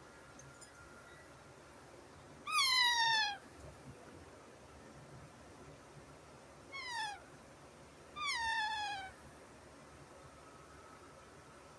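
Baby parrot calling three times, each call sliding down in pitch; the middle call is shorter than the other two.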